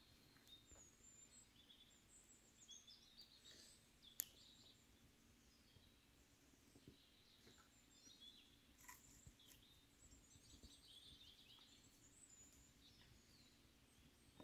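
Near silence with faint birdsong: scattered short chirps and trills, and one sharp click about four seconds in.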